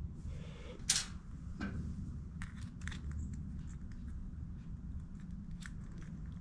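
Small clicks and taps of carburetor parts being handled and fitted by hand, the sharpest about a second in, over a low steady hum.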